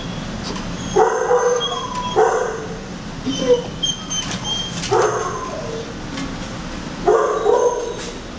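Shelter dogs barking, a bark or short volley every second or two, with brief high-pitched whines in between.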